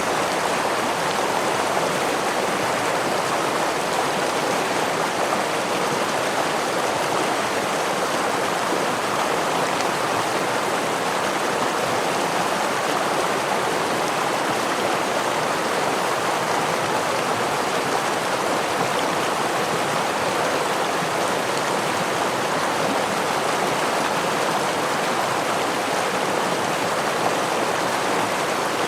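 Stream water rushing and splashing over rocks with a small waterfall, a steady, even rush with no change.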